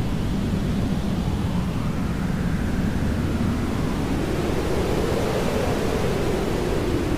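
Jet aircraft engine noise as a plane passes, a steady rushing sound with faint slow rises and falls in pitch.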